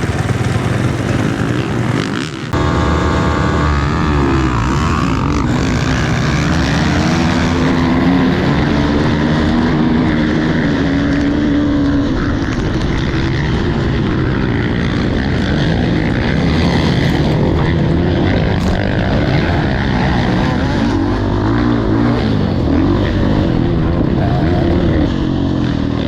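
Dirt bike engine running hard, its pitch rising and falling with throttle and gear changes, with a brief drop in level about two and a half seconds in.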